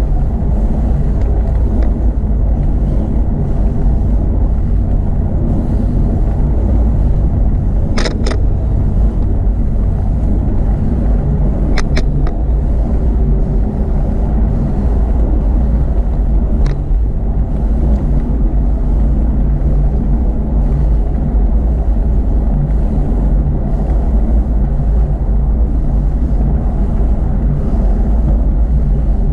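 Steady low rumble of wind and road noise on the microphone of a bicycle in motion. A few short clicks cut through it: a pair about a third of the way in, another pair a little later, and one more past the middle.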